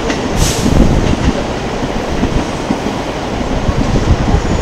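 Train running on the tracks, a steady rumble, with a brief hiss about half a second in.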